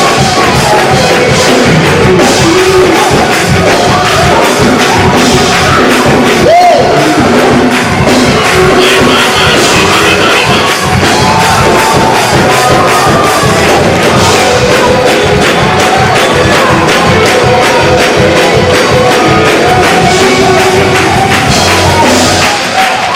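Loud gospel church music with a fast, driving beat and tambourine, and a congregation shouting and singing along over it.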